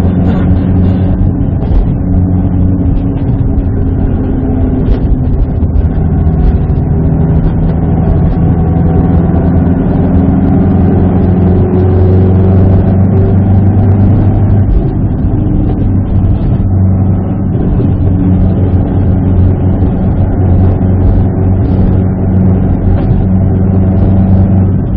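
Subaru WRX STI's EJ20 turbocharged flat-four engine running under way, heard from inside the cabin over road noise. The engine note holds mostly steady, with small shifts in pitch.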